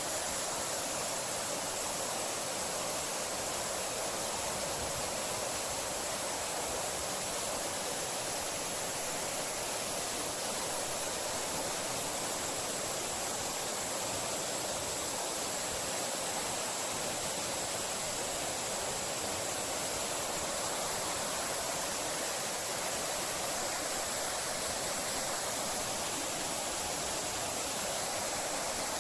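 Waterfall pouring into a basin: a steady, even rush of falling water with no let-up.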